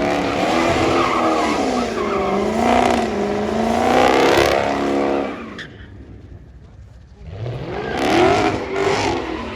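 Car engine revving hard, its pitch swinging up and down, with tyres squealing and skidding as the car drifts or does a burnout. The engine drops off about halfway through, then revs back up near the end.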